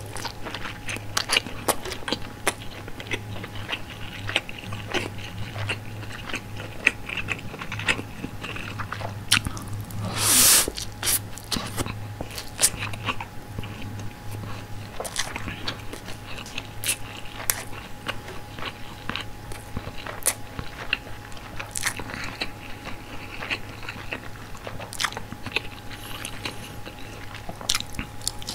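Close-miked chewing of glazed frank sausage, with many small wet mouth clicks and smacks. There is one louder, longer noise about ten seconds in. A steady low hum runs underneath.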